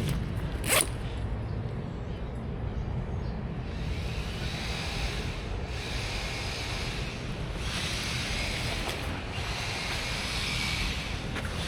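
Motorcycle engine running at a steady pace while riding, with a hiss of wind and road that comes in waves from about four seconds in. A brief sharp sound is heard about a second in.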